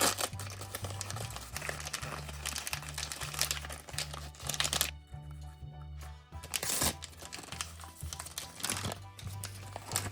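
Crinkling and rustling of the plastic wrapping on a surprise toy ball being unwrapped by hand, pausing for about a second midway, over background music with a steady bass line.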